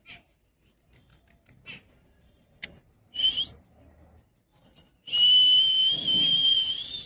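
Pet parrot making a few faint short chirps, then a short shrill call about three seconds in, and a long, loud whistling screech held on one pitch for about two seconds near the end.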